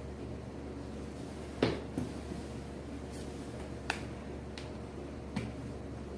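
Scattered light clicks and taps from cups and containers being handled as substances are put into small cups, the sharpest about one and a half seconds in, over a steady low hum.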